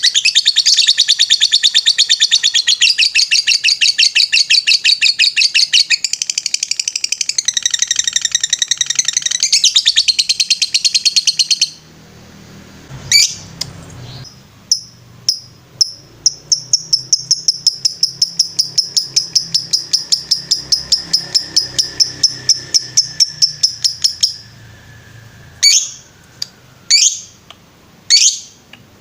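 Lovebird singing a long, very fast trill of rapidly repeated chirps, the 'ngetrek' song. It is loud for about twelve seconds, then continues as a quieter rapid trill over a low hum, and ends in a few separate sharp chirps.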